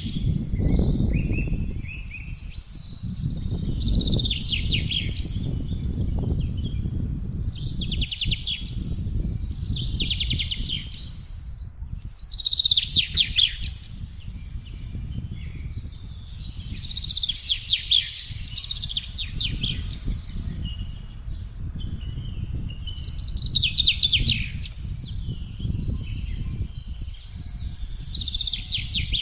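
Wind gusting with a low rumble that swells and eases, while songbirds sing short trilled phrases every few seconds.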